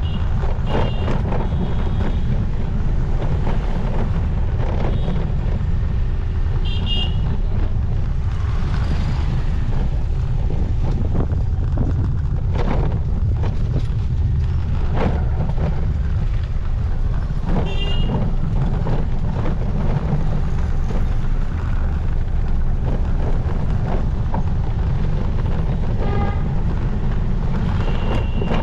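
Riding in city traffic on a motorcycle: a steady low rumble of wind and road noise on the microphone, with vehicle horns beeping several times. Some horns come as quick runs of short beeps, and one horn is held longer near the end.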